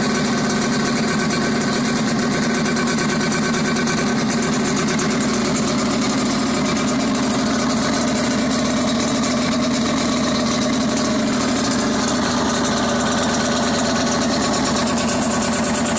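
1976 Suzuki GT380's three-cylinder two-stroke engine idling steadily through an aftermarket Piper exhaust.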